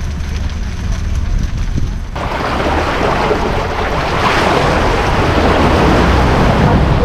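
Small boat under way: wind buffeting the microphone over a low rumble, then about two seconds in it switches abruptly to loud rushing water and spray along the hull.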